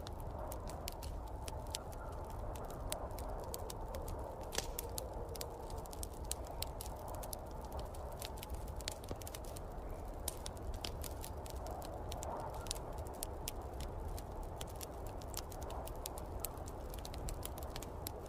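Wood fire crackling with many sharp pops, over a steady low rumble and a hissing wind that swells and fades, as of a snowstorm.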